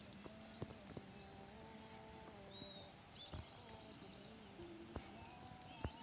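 Small birds chirping and trilling faintly, with a faint distant drone of held tones that shift in pitch and a few soft clicks.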